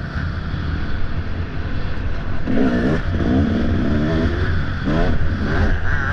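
Off-road dirt bike engine revving hard and backing off again and again, its pitch climbing in quick sweeps about once a second as the throttle is worked.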